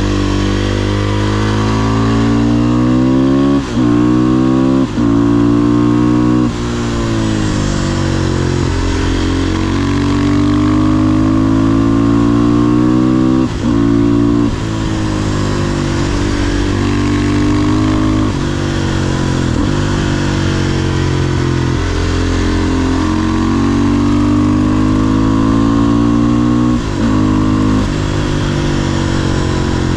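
500cc single-cylinder supermoto engine accelerating hard through the gears. Its pitch climbs and then drops at each of several quick upshifts, with stretches where the pitch falls as the bike slows.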